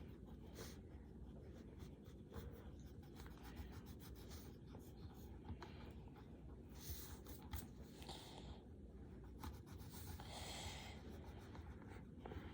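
Faint scratching of coloured pencils on paper, in a few short strokes with light ticks between.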